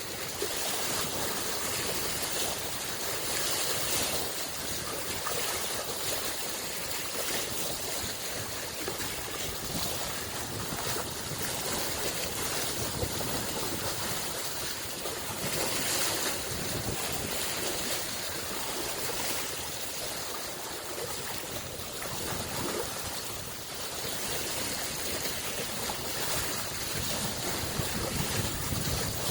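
Waves on a freshwater lake washing against the shore: a continuous hiss of moving water that swells and eases, with a few louder surges.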